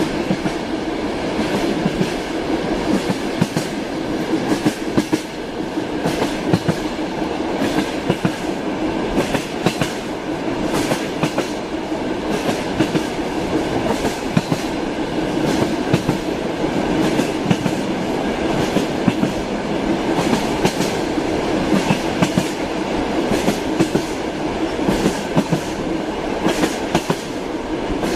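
Train running along the track, a steady rumble with wheels clattering over rail joints in frequent sharp clicks.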